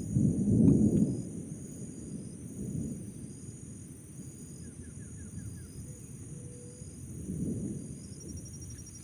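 Thunder rumbling low, loudest in the first second, fading, then swelling again briefly about seven and a half seconds in, with a steady high insect buzz and a short run of chirps behind it.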